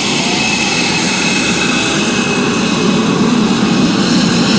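Jet aircraft engine noise: a loud, steady rushing that grows slightly louder near the end.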